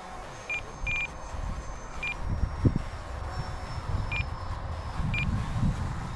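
Short single-pitch electronic beeps, six of them at uneven intervals, over a low rumble.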